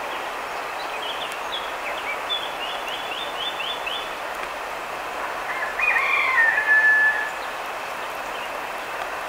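Wild birds singing over a steady background hiss: a quick series of short, high, falling chirps in the first few seconds, then a louder warbling phrase ending in a held whistle about six seconds in.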